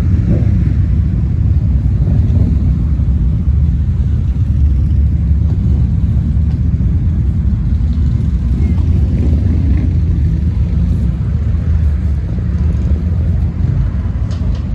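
A car engine running steadily close by, a constant low rumble.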